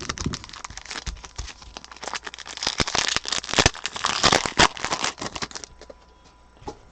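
Foil wrapper of a football card pack being torn open and crinkled, with the cards handled as they come out. The crinkling is densest about three to five seconds in, then dies down.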